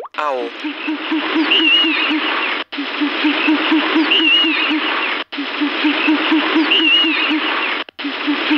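Owl calling: a rapid run of low hoots, about five a second, with a higher call that rises and falls once in each pass. The same short recording plays three times, with brief cut-outs between the passes.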